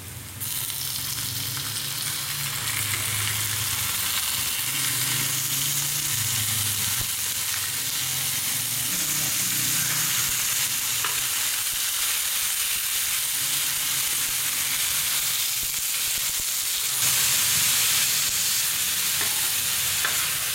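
Raw mutton liver pieces sizzling on a hot oiled tawa with fried onions. The sizzle jumps up about half a second in as the liver lands, then goes on steadily while a metal spatula stirs and scrapes, growing louder for a moment near the end.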